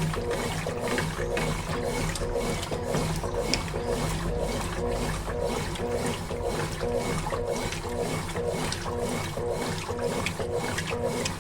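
Consul Facilite 11 kg top-loading washing machine agitating its load in water: motor hum and sloshing repeat in a steady rhythm of a few strokes a second.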